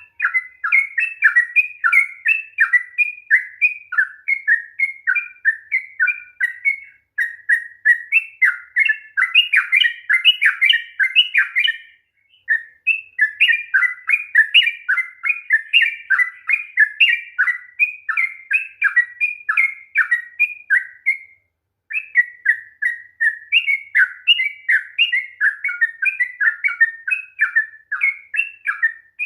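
Yellow-vented bulbul (trucukan) singing a long, rapid run of chattering notes, the 'ropel panjang' song, about four or five notes a second, with two short breaks, one near the middle and one about two-thirds through.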